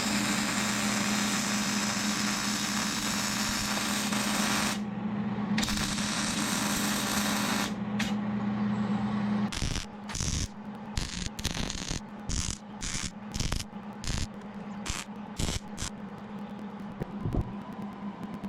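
Wire-feed welder arc crackling and hissing with a steady hum, laying a bead along a skid steer bucket's new cutting edge, with a brief break about five seconds in. From about halfway the arc runs in short stop-start bursts.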